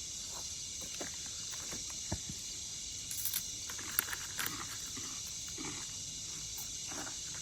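Steady high-pitched chorus of night insects, crickets, with a few faint light knocks and rustles from about two to four and a half seconds in.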